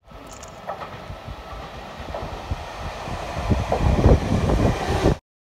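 Toei 6500 series electric commuter train running into a station close past the platform: a steady rumble that grows louder, with heavy low knocks from the wheels in the last couple of seconds, cutting off suddenly near the end.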